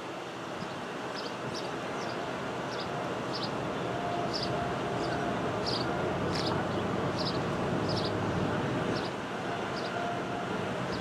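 A train approaching, its rumble growing steadily louder, with a string of short high-pitched ticks a little under two a second.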